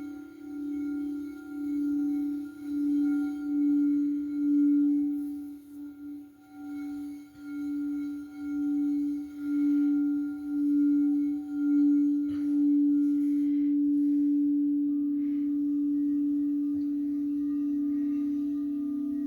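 A singing bowl sounding one low sustained tone that swells and wobbles about once a second. About twelve seconds in there is a light knock, after which the tone holds steady and a higher tone joins it.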